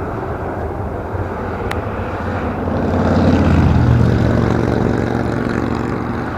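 Jet airliner engines running loudly, a broad jet noise with a low steady hum that swells to a peak about three to four seconds in, then eases off.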